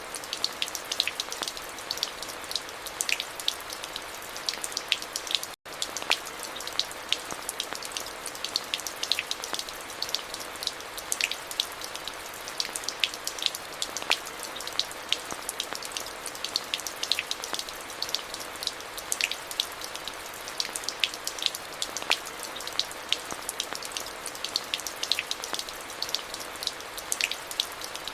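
Steady rain falling, with many sharp ticks of single drops striking close by over an even hiss. The sound cuts out for a split second about five and a half seconds in.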